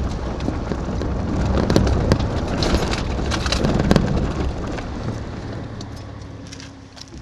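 A vehicle driving, with a steady engine note, rough road noise and scattered rattles and knocks. It fades over the last few seconds and cuts off suddenly at the end.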